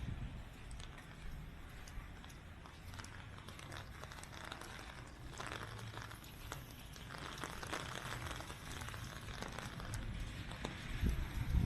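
Footsteps on wet pavement, faint and irregular, over a low steady rumble.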